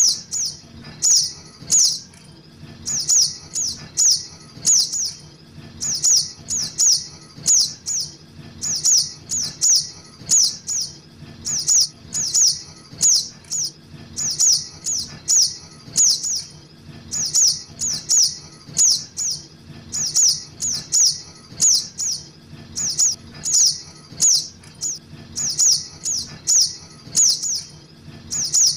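Juvenile sogok ontong (little spiderhunter) calling over and over: high, sharp chirps in quick clusters of three or four short falling notes, about one cluster a second, played in a loop as a bird-catching lure call.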